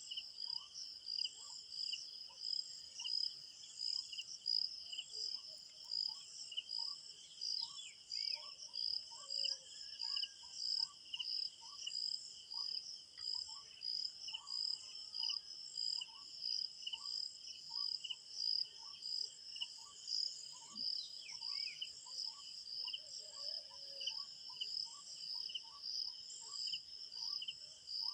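Crickets chirping in a steady, regular pulsing chorus, with faint short bird calls now and then.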